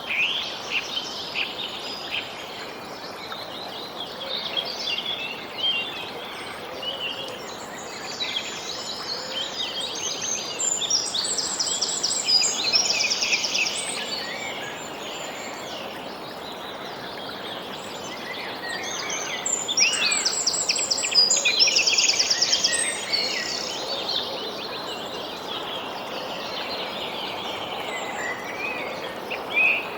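Several birds chirping and singing over a steady background hiss, with two louder bouts of song that include fast trills, about a third of the way in and again about two thirds in.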